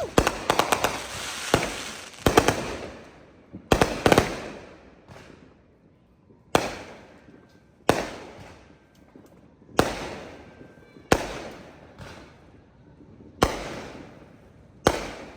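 Fireworks going off close by. A quick run of crackling reports comes first, then single loud bangs about every one and a half to two seconds, each echoing away.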